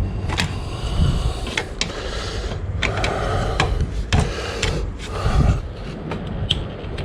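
Hand tools clicking, knocking and scraping against a brass fitting on the autoclave as it is worked loose, in irregular short bursts.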